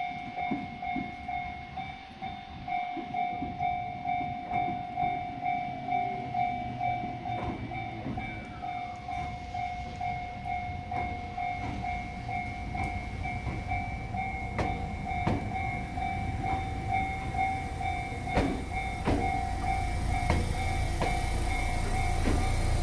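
Ichibata Electric Railway 7000 series train heard from on board, with a low rumble that grows stronger about halfway through and scattered clicks. Throughout, a pitched warning tone pulses about twice a second.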